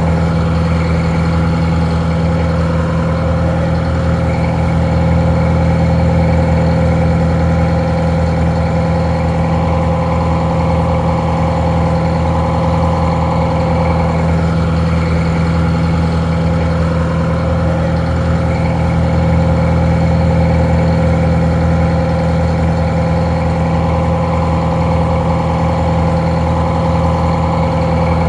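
Detroit Diesel 4-71 two-stroke diesel engine idling steadily, slightly muffled.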